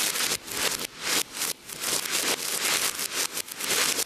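Fireworks fountain spraying sparks, a dense hissing crackle that surges and drops off several times a second, played backwards.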